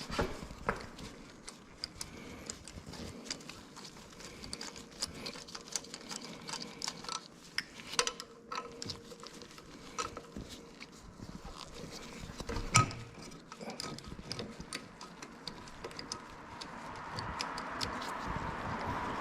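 Irregular small clicks, taps and clinks of hand tools and metal parts being handled during car repair work, with one louder knock near the middle. A steady hiss builds up over the last few seconds.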